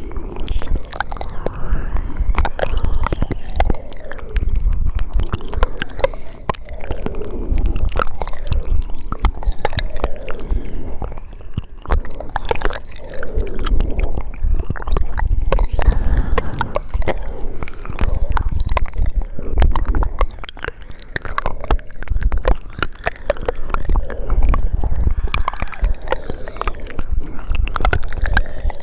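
Close-miked ASMR mouth sounds: a continuous stream of wet clicks, smacks and saliva sounds from lips and tongue.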